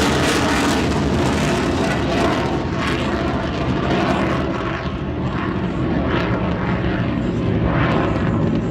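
USAF F-16C Fighting Falcon's single jet engine, a loud steady rumble during a display pass. Its high hiss fades away about two and a half seconds in.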